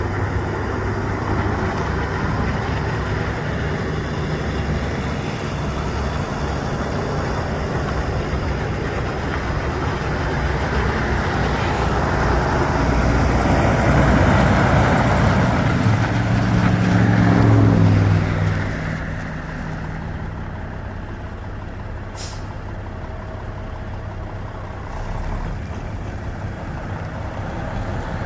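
The diesel engine of a 1997 Volvo day cab truck running. It climbs in revs and loudness for several seconds, then drops back about two-thirds of the way through to a quieter idle. A brief high hiss comes a few seconds after the drop.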